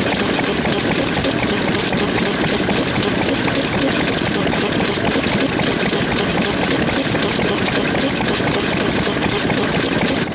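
Old Japanese stationary farm engines (hatsudoki) running with a dense, steady chugging, fading out at the end.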